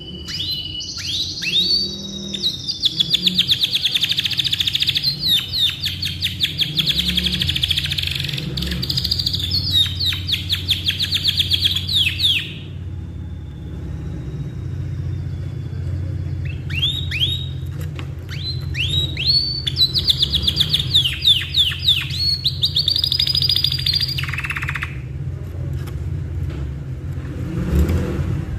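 Canary singing long, rapid trilled phrases, breaking off for about four seconds in the middle before starting again. A low steady hum runs underneath.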